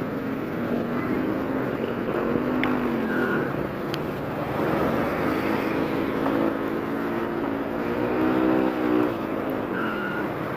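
Motorcycle engine running under way, its pitch rising and falling several times as the throttle opens and closes, over steady wind and road noise.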